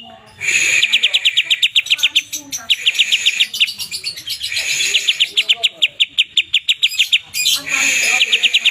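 Greater green leafbird (cucak ijo) singing loudly in long runs of rapid, sharp repeated notes, about ten a second, broken by brief pauses and a few harsher drawn-out calls.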